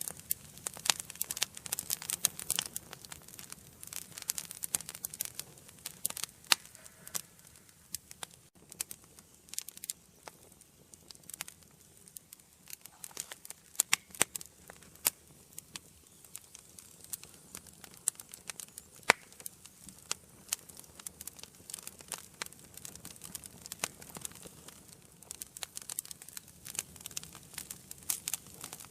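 Wood fire burning in a fireplace, crackling and popping irregularly over a soft low hiss, with sharp pops thickest near the start, around the middle and near the end.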